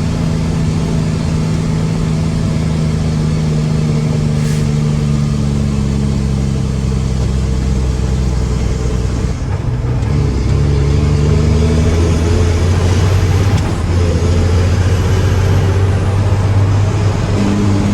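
Mack truck's diesel engine running steadily; about ten seconds in its note changes and it runs a little louder.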